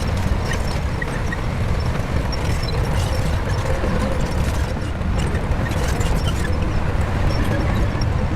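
Shantui bulldozer's diesel engine running in a steady low rumble, with faint light clanks over it.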